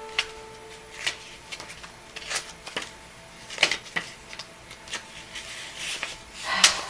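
Cards or paper being handled on a table: scattered light clicks and taps, then a louder rustle near the end.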